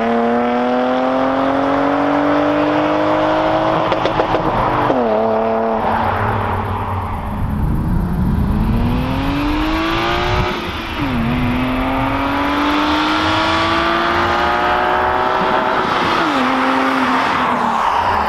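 BMW E36 325i's M50B25 straight-six running through a Magnaflow exhaust, accelerating through the gears: the engine note climbs steadily and drops sharply in pitch at three upshifts, about five, eleven and sixteen seconds in.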